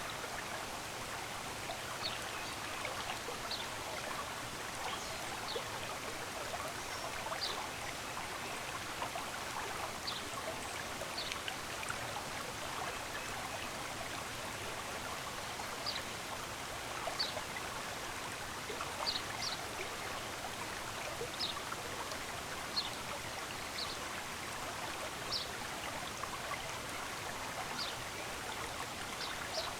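Steady rush of a stream of running water, with short, high bird chirps scattered throughout.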